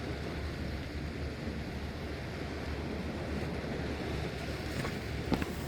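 Steady noise of wind and sea surf, heavy in the low end, with a couple of sharp knocks near the end.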